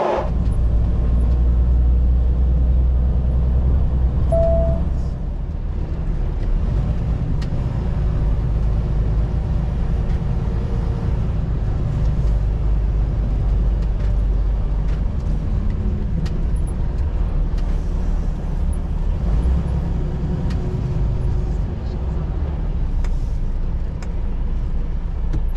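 Semi truck running as heard inside the cab, a steady low rumble of engine and road noise, with a brief beep about four and a half seconds in.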